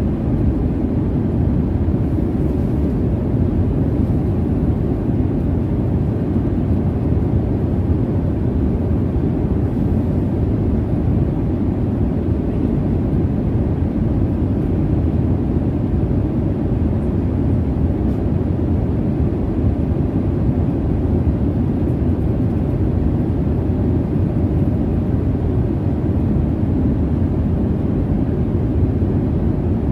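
Airliner cabin noise in flight: a steady low rumble of jet engines and airflow, even and unchanging.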